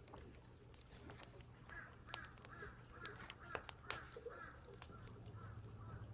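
Crows cawing in a run of short, repeated calls, faint, starting about two seconds in, with scattered sharp clicks alongside.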